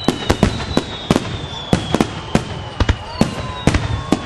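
Fireworks display: a rapid, irregular string of sharp bangs from bursting shells, several a second, over high whistles that slowly fall in pitch.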